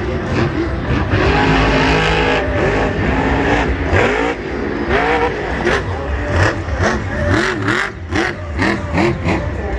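Monster truck engine revving hard again and again, its pitch rising and falling in quick surges.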